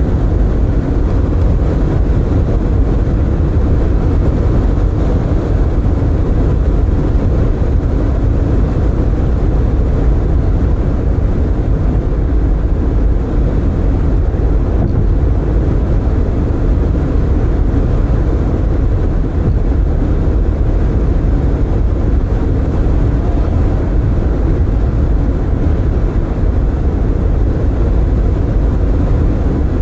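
Car driving at road speed with the windows open: a steady rumble of tyres on the road and wind.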